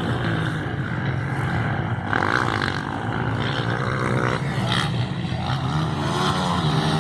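Motocross motorcycle engines running and revving, the pitch rising and falling again and again without a break.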